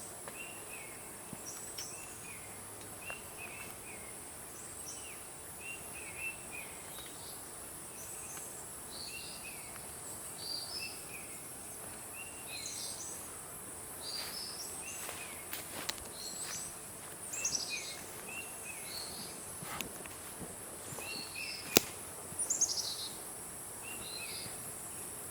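Forest birds chirping with short, repeated calls over a steady high insect hiss. A single sharp click stands out a little over three-quarters of the way through.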